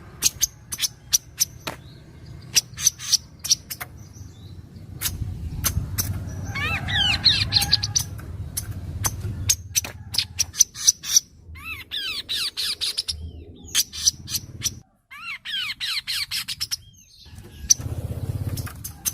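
Kaso-kaso birds calling: a steady run of sharp, very short chips, broken three times by bursts of quick sweeping trilled notes. A low rumble runs underneath.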